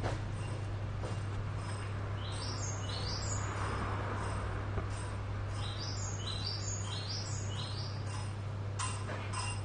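A bird chirping in quick runs of short high notes, twice, over a steady low hum. A few sharp clinks come near the end.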